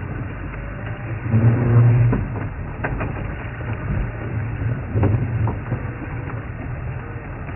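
Safari game-drive vehicle's engine running at a low hum, rising louder a couple of times as it pulls forward, with a few light knocks.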